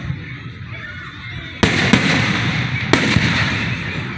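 Aerial fireworks bursting: a sharp bang about a second and a half in, a second right after it and a third a second later, each trailed by crackling.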